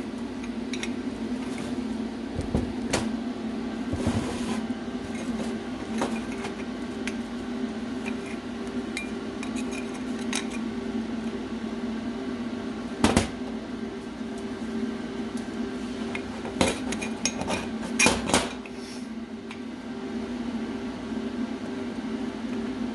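Stainless steel exhaust parts clinking and knocking as they are handled and tacked together, over a steady hum. A few sharp metallic knocks stand out, the loudest about 13 seconds in and a cluster around 17 to 18 seconds.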